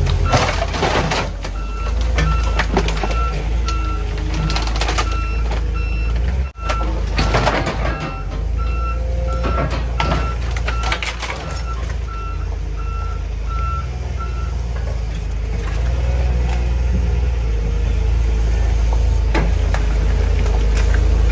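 Heavy machine's engine running under load with its backup alarm beeping steadily until about two-thirds through, as metal crunches and bangs while the car's engine is torn out, held back by exhaust still attached underneath.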